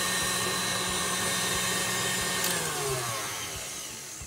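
KitchenAid Artisan stand mixer running fast with its flat beater in a thin liquid egg mixture: a steady motor whine and rush. About three seconds in, the pitch slides down and the sound eases off as the mixer slows.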